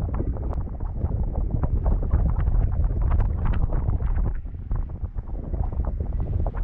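Wind noise on a paragliding camera's microphone: a steady low rushing with rapid, irregular fluttering gusts.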